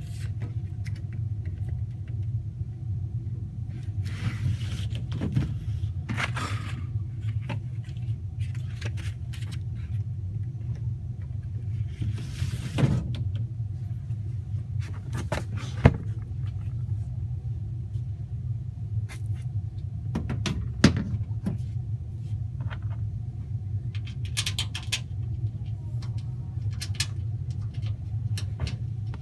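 Steady low mechanical rumble with scattered clicks, knocks and rustling handling noises; the sharpest click comes about 16 seconds in.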